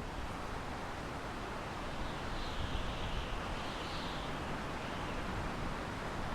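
Wind blowing through pine trees: a steady rushing hiss over a low rumble, with a higher hiss swelling about two seconds in and easing off about three seconds later.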